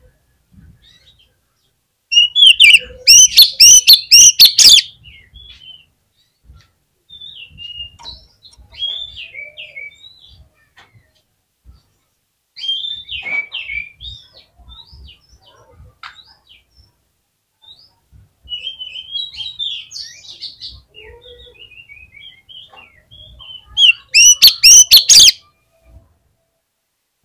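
Oriental magpie-robin (kacer) singing a varied run of short whistled phrases, used as a lure song for other kacer. Two much louder, dense bursts of song come about two seconds in and again near the end.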